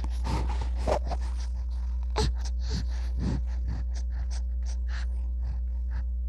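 A baby's quick, short breaths and gasps, repeated irregularly at first and then more evenly, over a steady low hum.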